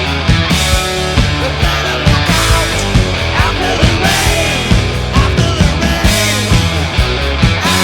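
Hard rock band recording playing at full volume with a steady beat from drums and bass.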